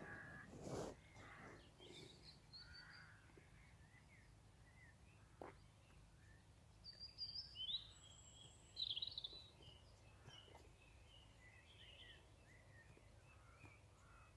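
Birds calling faintly, short scattered chirps over a low steady background rumble, with a few louder calls around the middle.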